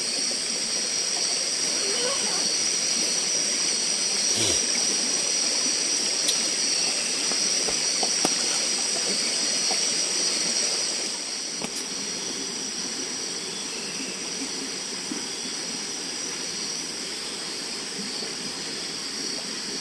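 Nighttime tropical forest insect chorus: a steady, high-pitched shrill of many insects over a softer even hiss, dropping slightly in level about halfway through.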